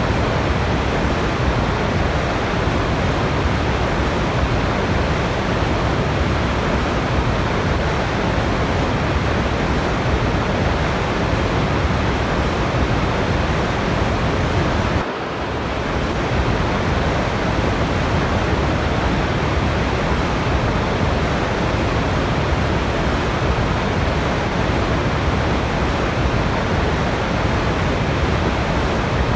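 Waterfall's steady rushing water, an even unbroken noise that dips briefly about halfway through.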